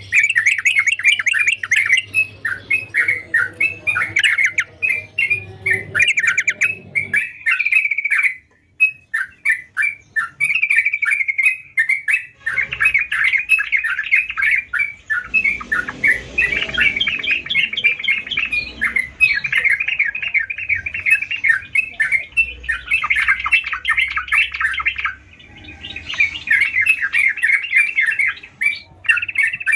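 Yellow-vented bulbul (trucukan) singing busily: rapid, almost unbroken strings of short chattering notes, with brief pauses about a third of the way in.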